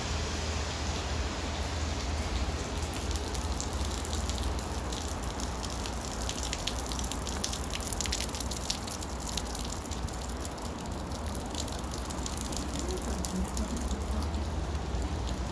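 Steady rain falling, with a dense patter of close raindrops and drips ticking sharply from about three seconds in to about ten seconds in, over a constant low rumble.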